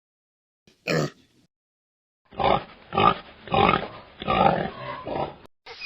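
Pig grunting: a short burst about a second in, then a run of about five grunts in a row.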